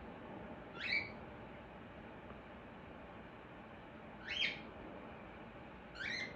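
Pet bird giving three short chirps, each a quick call sweeping upward in pitch, spread a few seconds apart over a faint steady hiss.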